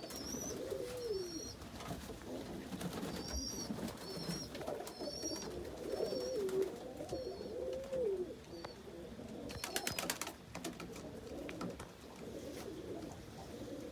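Domestic homing pigeons cooing repeatedly in a loft: low, wavering coos that rise and fall, with short high chirping notes over them in the first half. A brief rattle of clicks comes about ten seconds in.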